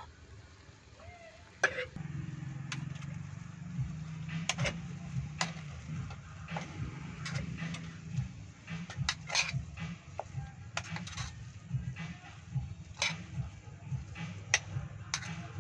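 Scattered sharp clicks and clinks of small hard objects being handled, over a low steady hum that starts about two seconds in.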